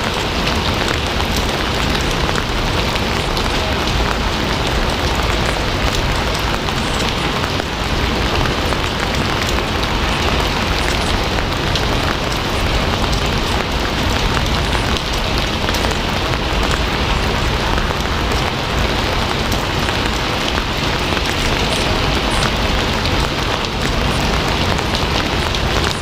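Steady rain falling: a dense, even hiss of many drops, with small ticks of single drops throughout.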